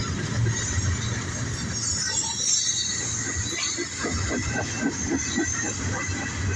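CSX freight train led by a heritage locomotive rolling past, wheels rumbling on the rails. In the second half the wheels clack in a quick run over the rail joints.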